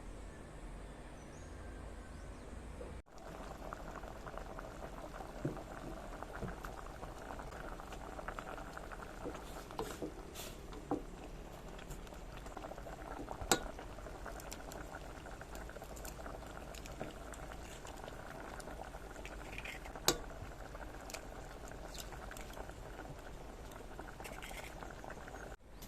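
A pot of soup boiling, a steady bubbling that begins after a cut about three seconds in, with a few sharp clicks here and there.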